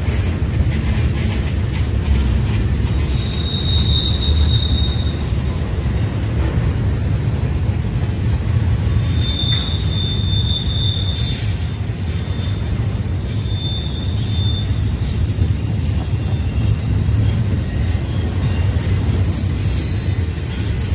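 Double-stack intermodal freight train rolling past, its steel wheels rumbling steadily over the rail joints. High-pitched flange squeal comes and goes several times as the wheels grind through the curve, with a higher squeal near the end.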